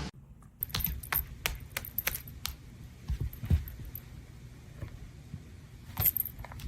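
Irregular sharp clicks and taps, a handful in quick succession early, a louder knock with a dull thud about three and a half seconds in, and another cluster near the end, over a low rumble.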